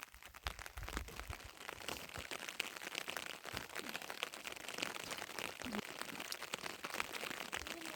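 Rain pattering on a surface: a dense, irregular crackle of drops.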